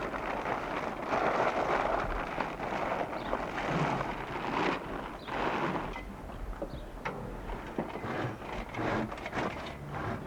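Wind buffeting the microphone: a rushing noise that swells and eases in gusts, with a few soft low thumps.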